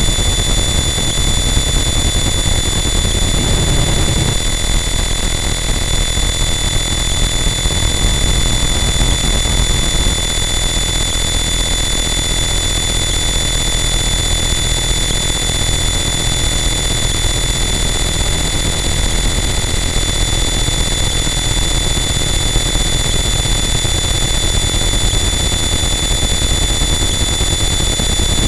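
Harsh noise wall: a loud, unchanging wall of dense distorted noise with a low rumble and steady high-pitched whines over it.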